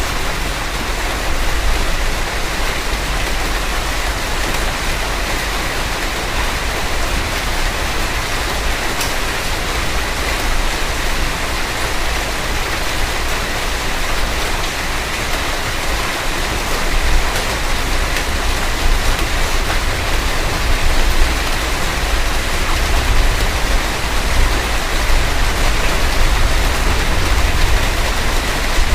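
Heavy rain on a moving car: a steady hiss of rain over the low rumble of the car on the road.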